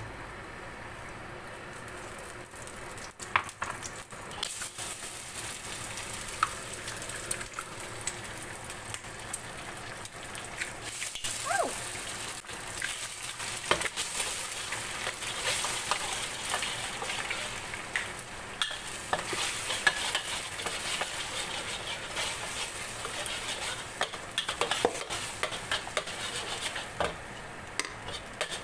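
Eggs frying in hot oil in a wok, sizzling, while a metal spatula scrapes and clicks against the pan as they are scrambled. The sizzle picks up a few seconds in.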